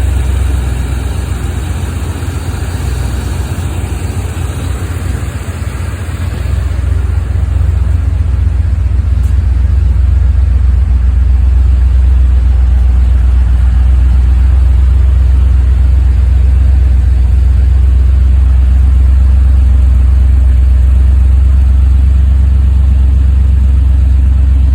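A 1982 Chevrolet Camaro Z-28's 305 V8 idling during warm-up after a cold start, a steady low rumble. It grows louder and steadier about seven seconds in.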